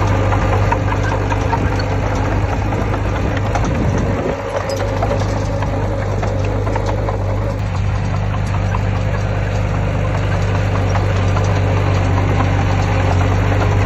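Diesel engine of heavy earthmoving machinery (bulldozer or dump truck) running steadily with a deep hum and clatter, with a brief dip about four seconds in.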